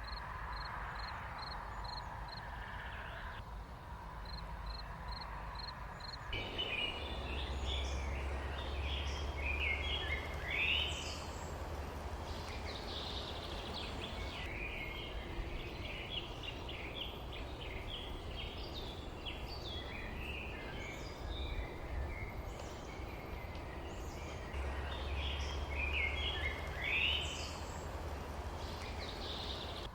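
A flock of small birds chirping and twittering, many short overlapping calls, starting about six seconds in. It sits over a steady low rumble and hiss of outdoor background noise. Before the birds come in there is a faint, fast, high ticking.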